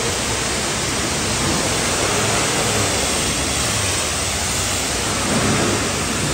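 A high-pressure washer's water jet spraying steadily, a loud even hiss of water.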